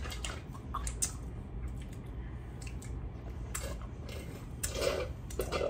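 Close-miked eating sounds: soft chewing with scattered lip smacks and mouth clicks from licking fingers, busier around four to five seconds in.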